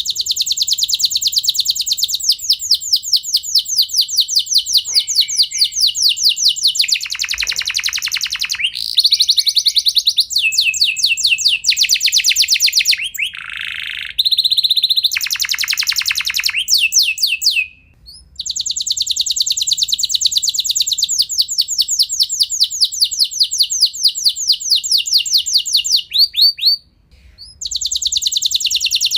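Domestic canary singing long rolling trills of rapid repeated notes, shifting from phrase to phrase between higher and lower runs. The song breaks off briefly twice, once just past halfway and again near the end.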